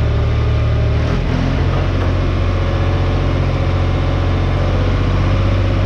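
An engine running steadily, with its speed changing about a second in.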